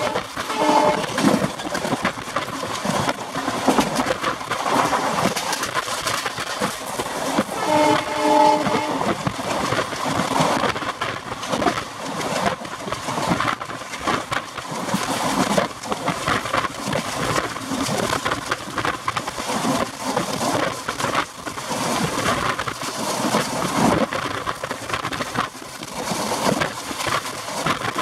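Express passenger train running at about 110 km/h, heard from an open coach door: a steady rush of wheels on rail and wind with dense rattling and clatter. A multi-tone locomotive horn sounds briefly near the start and again about eight seconds in.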